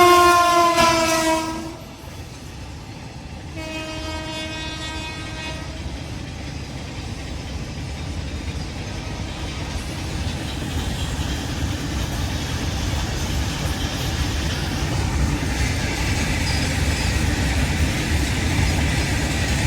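Indian Railways WAG-9 electric locomotive sounding its horn twice, a loud blast of about two seconds and a second, shorter one about three and a half seconds in. Then comes the steady rumble and clatter of the freight train's wheels on the track, growing louder as it nears.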